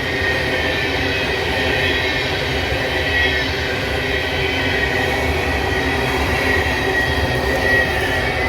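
An empty coal train's cars rolling past at close range: a steady rumble of wheels on rail with a thin, high wheel squeal on top.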